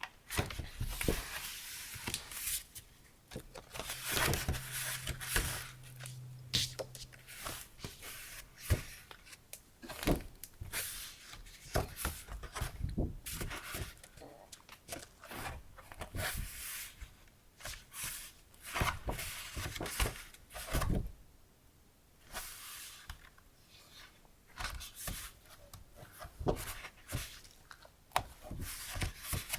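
Paper and plastic packaging rustling, crinkling and tapping in irregular bursts as stationery is handled and unwrapped, with quieter gaps in between.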